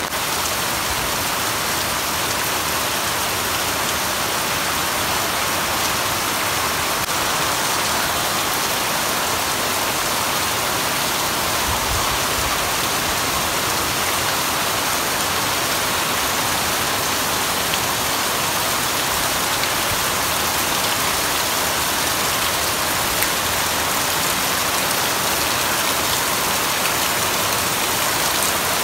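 Heavy rain falling steadily on banana leaves and a concrete yard, an even downpour with no let-up.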